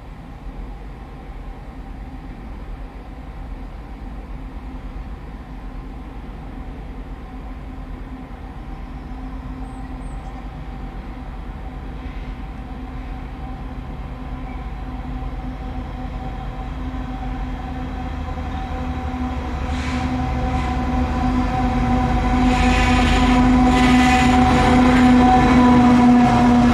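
Freightliner Class 70 diesel locomotive hauling a container freight train, its engine drone growing steadily louder as it approaches and runs past close by. Wheels clatter over the track in the last several seconds.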